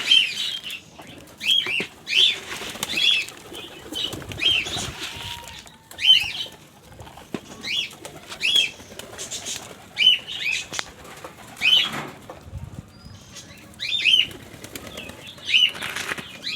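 Pigeons flapping their wings in flurries around a feeding spot, mixed with short high chirps from birds that repeat about every half second to a second.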